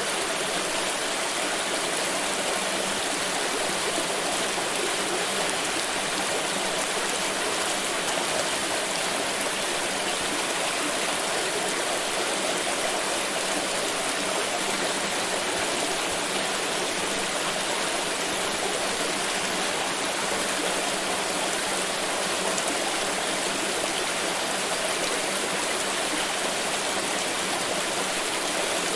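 Water pouring in a steady, unbroken rush with an even splash throughout.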